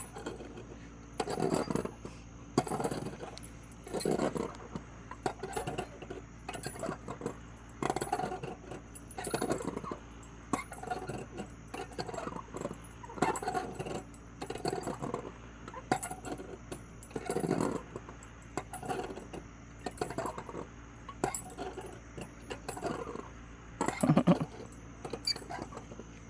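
Metal swing chains clinking and jangling in an even rhythm, about once every second and a half, with each pass of a swing.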